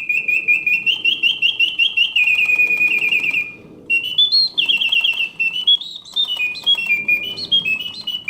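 Mechanical song of a 1970 Reuge singing bird cage automaton: a bellows-driven whistle imitating birdsong, first a fast run of repeated chirps, breaking off briefly about three and a half seconds in, then resuming as a warble of notes rising and falling in pitch.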